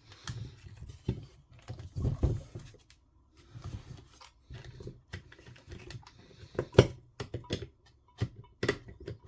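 Irregular small clicks and taps of hands and tools on an RC touring car, working to pop tight plastic turnbuckle ends off their ball studs, with a few louder knocks.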